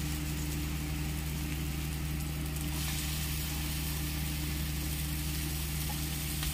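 Raw chicken pieces and masala sizzling steadily in a hot kadai, the hiss growing brighter about three seconds in, over a steady low hum.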